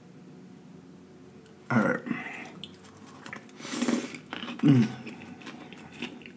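A man biting into a chicken sandwich close to the microphone, with a crisp bite about four seconds in, then chewing with many small wet mouth clicks. Brief vocal sounds come about two seconds in and again just before five seconds.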